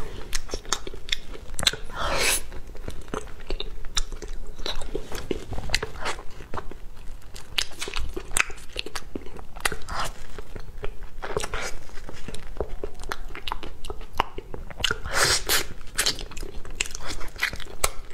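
Close-miked biting and chewing of durian flesh: a steady run of quick mouth clicks, with a louder burst about two seconds in and another late on.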